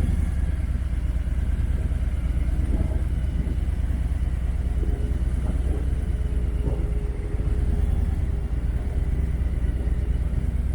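Harley-Davidson Road Glide Special motorcycle with its V-twin engine running, a steady low rumble picked up by an action camera mounted on the bike.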